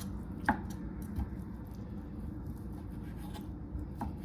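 Kitchen knife cutting through cooked chicken breast onto a cutting board: a few sparse knocks of the blade on the board, the clearest about half a second in, over a low steady background.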